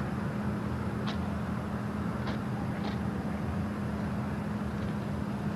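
Steady low mechanical hum with a constant low tone, and a few short sharp clicks or slaps at about one, two and three seconds in.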